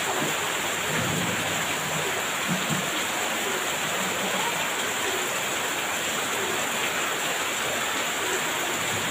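Heavy rain falling steadily, an even dense hiss, with a faint low rumble of thunder in the first few seconds.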